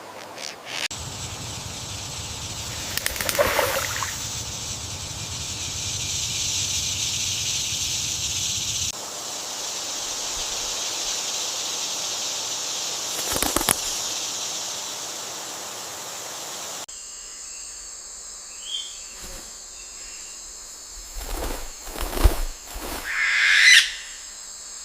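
Layered outdoor nature ambience: a steady high hiss like insects, with a few short bird calls. The background shifts abruptly twice.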